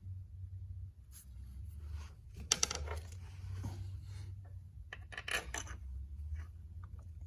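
Metal tools and parts clinking and scraping as a tractor water pump is set in place, with two louder clanks and rattles, about two and a half and five seconds in, over a low steady hum.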